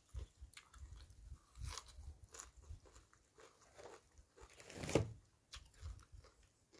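A person biting and chewing crisp raw leafy greens with papaya salad: irregular wet crunches and mouth clicks, with one louder crunch about five seconds in.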